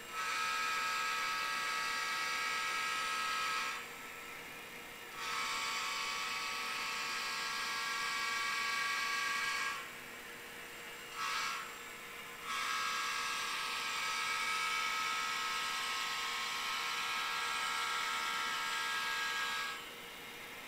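Model diesel locomotive air horn from a sound decoder, played through tiny speakers, blowing the grade-crossing signal: long, long, short, long. A faint steady hum sounds between the blasts.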